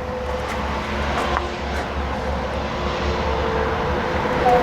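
Steady rumble and hiss from a distant engine, with a faint even hum.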